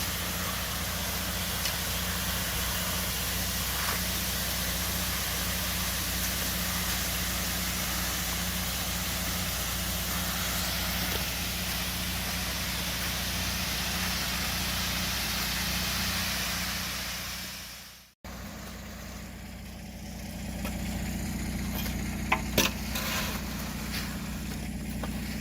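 An engine running steadily under a broad hiss. It fades out about eighteen seconds in, and a quieter stretch follows with a couple of sharp knocks.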